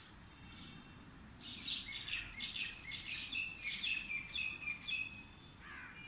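A small songbird sings a quick, lively run of short, high chirping notes. It starts about one and a half seconds in and stops shortly before the end.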